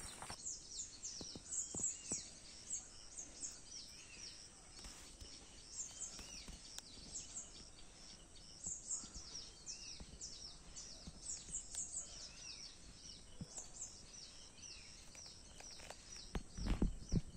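Small birds chirping: many short, high, downward-sliding chirps repeating over and over, with a brief low thudding rumble near the end.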